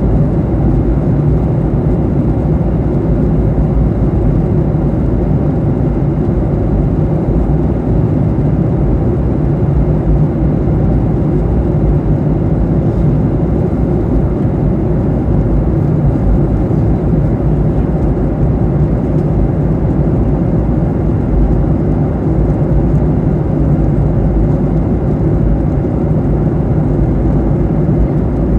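Steady cabin noise inside a Boeing 737-800 in flight: the even rush of airflow and engine noise, deep and unchanging.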